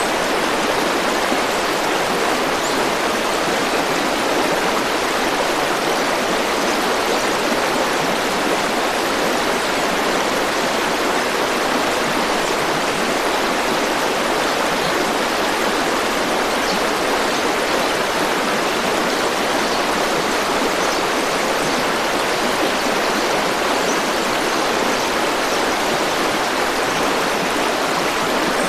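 River water flowing, a steady, even rush with no change in level.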